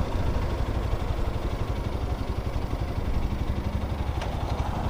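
Lifan X-pect 200's single-cylinder engine running steadily at low revs, with no revving.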